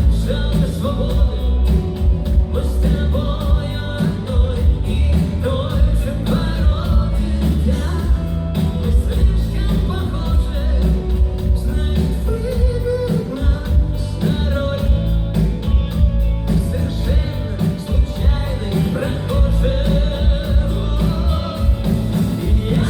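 Rock band playing live with a lead singer: steady drums and bass under sung vocals, loud throughout.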